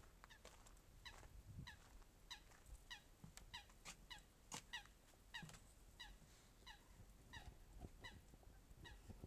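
A bird calling faintly and over and over, about three short, slightly falling notes a second.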